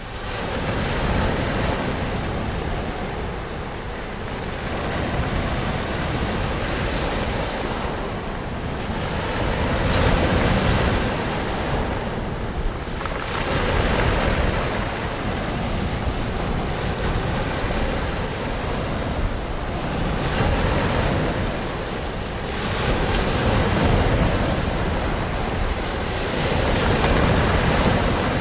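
Ocean surf: a continuous rush of waves that swells and eases every few seconds.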